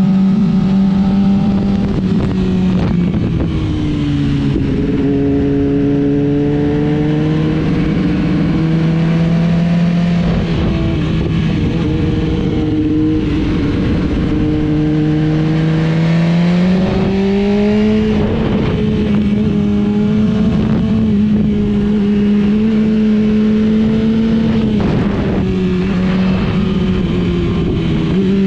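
Motorcycle engine running hard at speed over steady wind rush, its note sliding lower a few seconds in, climbing again past the middle, and dropping near the end as the throttle and gears change.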